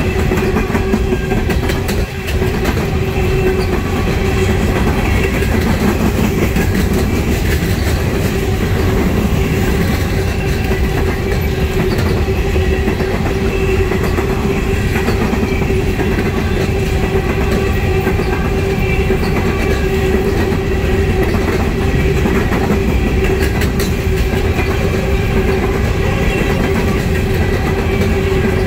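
Empty steel coal hopper cars rolling past close by: steel wheels clattering over the rail joints in a steady clickety-clack, with the rumble of the cars and a steady ringing tone above it.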